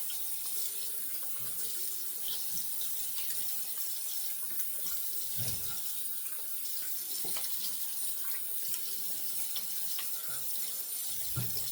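Water tap running steadily into a sink as shaving lather is rinsed off a freshly shaved head, with a few faint knocks.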